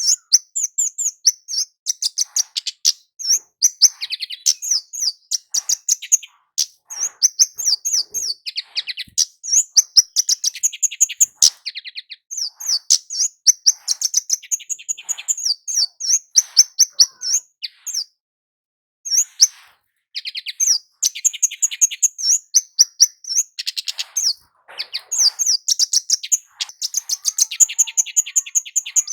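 Kemade (a flowerpecker) calling without let-up: rapid runs of very high, thin chips and trills, with one short pause about two-thirds of the way through. It is the loud 'cit keres' call that keepers use as a lure to set other kemade birds singing.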